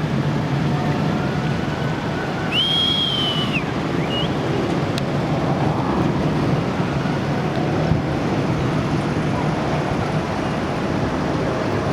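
Jet roar of the Boeing 747 Shuttle Carrier Aircraft's four turbofan engines as it flies over carrying the Space Shuttle Endeavour, a steady rushing roar. A brief high whistle comes about two and a half seconds in, with a short rising chirp about a second later.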